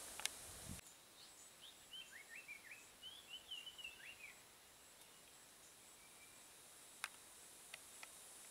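Quiet outdoor ambience in which a small bird sings a run of short, quick chirping notes for a few seconds. There are a few sharp clicks, the loudest just after the start. A low rumble cuts off abruptly under a second in.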